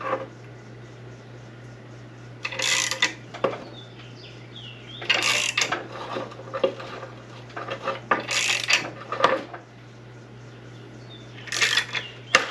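Metal tools and parts clanking and scraping against an SM465 transmission in four short bursts about three seconds apart, while a bearing is worked off a shaft, over a steady low hum.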